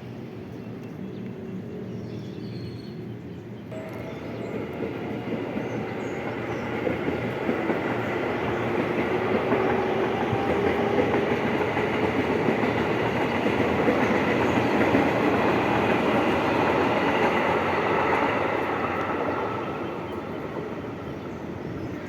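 A train passing by on the rails. Its rumble and rail noise build up over several seconds, stay loud through the middle, and die away near the end.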